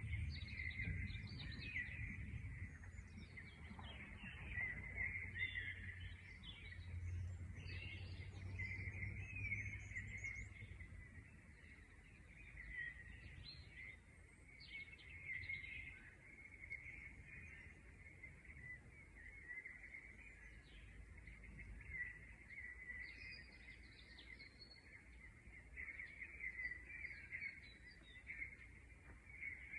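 Several birds chirping and twittering, a dense run of short overlapping calls throughout, over a low rumble that eases off after about ten seconds.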